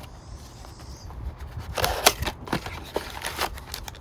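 Handling noise from a car door's window and lock switch assembly: a quiet first second, then a cluster of sharp clicks and taps about two seconds in.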